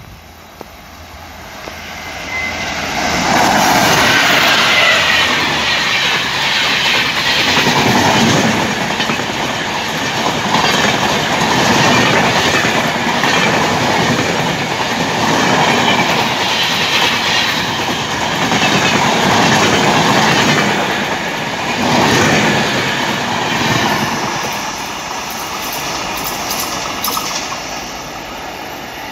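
Express train hauled by a diesel locomotive approaching and passing at speed close to the track. The sound builds over the first few seconds into a loud, surging clatter of coach wheels over the rails and fades away near the end.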